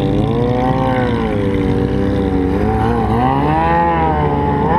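Sport motorcycle engine under way, its pitch falling over the first couple of seconds as the throttle eases, then climbing again about three seconds in, with wind rushing over the microphone.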